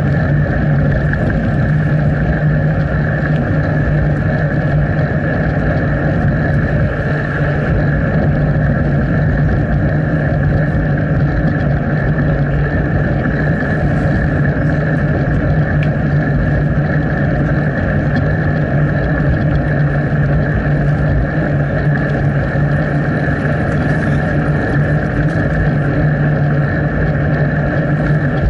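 Steady rushing wind and rolling noise picked up by an action camera on a moving bicycle, with an unchanging low hum.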